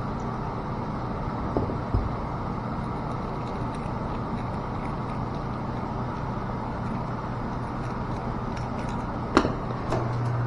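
Steady low machinery hum, with a few sharp clicks of small valve parts being handled: two about two seconds in and a louder pair near the end.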